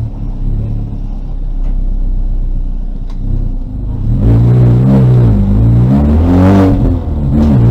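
2000 VW Golf race car's engine running at moderate revs, then louder from about four seconds in, its pitch rising and falling several times as the throttle is worked.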